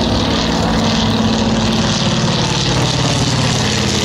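Avro Anson's two radial piston engines droning steadily as it flies low overhead.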